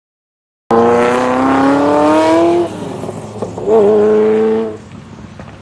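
Supercar exhaust: the engine note rises steadily under hard acceleration for about two seconds, then falls away. A second, shorter burst of engine note follows, then it cuts off suddenly.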